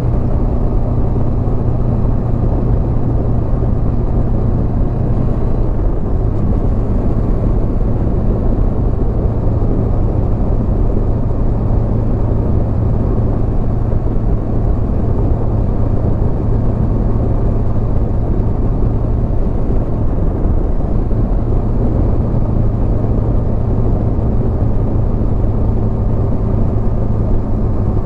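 Honda CB500X parallel-twin engine running at a steady pace under way, mixed with a dense rush of wind and road noise.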